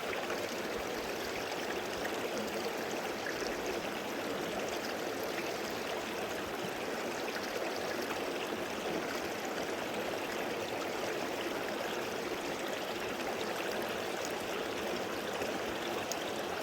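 Creek water flowing steadily, an even rushing hiss with no change in level.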